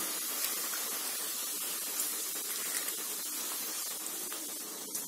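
Eggs and sliced onions frying in hot oil in a kadai: a steady sizzling hiss.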